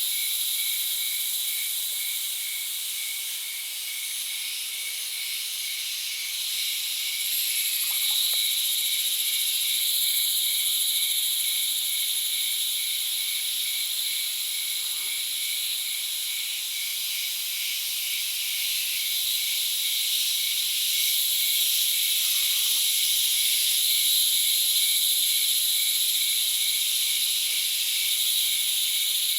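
Chorus of forest insects: a steady high shrilling, with one caller pulsing evenly about twice a second.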